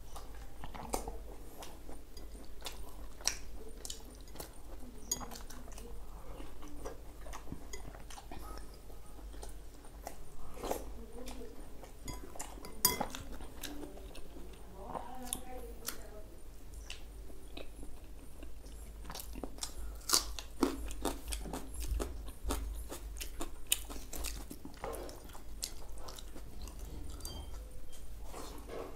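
A man chewing mouthfuls of paratha dipped in tadka, with many short, sharp, wet mouth clicks and smacks coming at an irregular pace.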